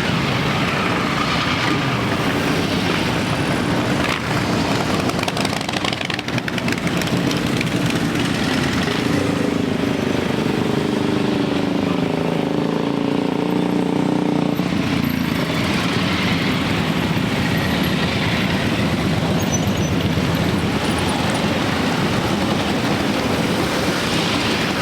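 Many motorcycle engines running together as a parade of bikes rides past, a steady dense engine noise, with one engine's pitch standing out from about nine to fifteen seconds in.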